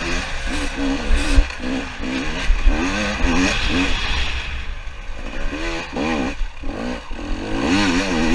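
Two-stroke 300 TPI dirt bike engine revving up and down over and over as the throttle is worked, easing off for a couple of seconds past the middle and picking up again near the end, with wind rumbling on the microphone.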